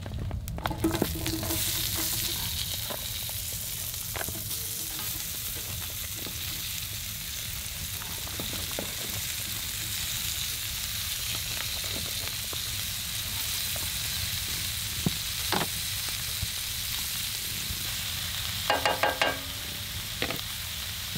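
Sliced bell peppers and onions tipped into a hot cast iron skillet of bacon grease, oil and butter, the fat starting to sizzle a second or two in and then frying steadily, with light knocks as the vegetables land and are pushed around. A short pitched sound near the end.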